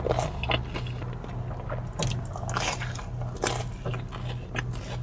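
A person biting into and chewing crunchy food close to the microphone, with irregular crackly bites over a steady low hum.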